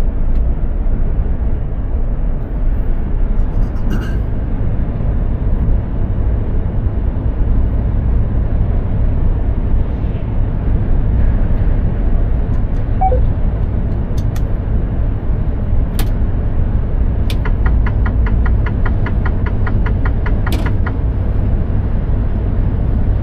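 Mercedes-Benz Actros 2763 truck running at road speed: a steady, low engine and road rumble. A few sharp clicks come through, and a quick, even run of ticks lasts about three seconds near the end.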